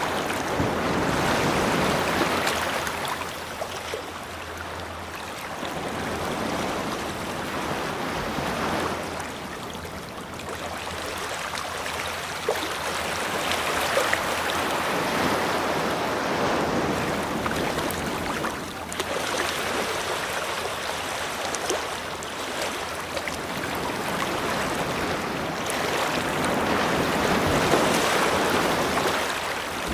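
Ocean waves breaking and washing up on a beach, in slow swells every four to six seconds.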